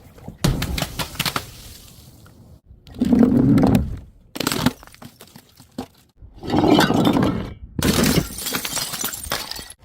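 Glass bottles smashing and shattering, several separate breaks in a row with crunching and tinkling of broken glass, each cut off abruptly before the next.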